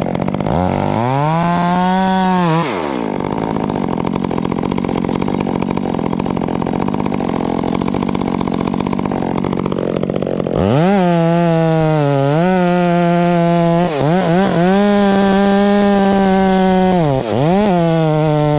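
Two-stroke chainsaw, revved briefly and dropping back to a lower steady running. About ten seconds in it opens up to full throttle and stays high, its pitch dipping briefly three times.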